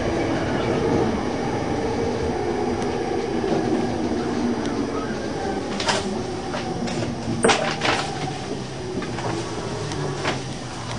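JR East 209 series electric train heard from the driver's cab, slowing along a station platform: steady running noise with a layered motor hum that fades after the first few seconds. From about six seconds in come a few sharp clicks and squeaks, the loudest a little past seven seconds.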